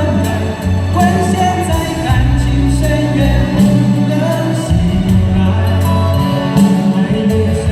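Live band music with a bass line that changes note about every second under sustained chords.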